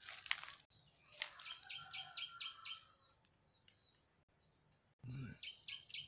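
A bird calling twice: a quick run of about seven short, identical high notes at roughly five a second, with the run repeated about four seconds later. Two sharp cracks come in the first second and a half.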